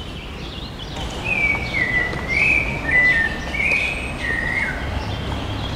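A small songbird singing a run of warbling, gliding whistled notes for about four seconds, over a low steady background rumble.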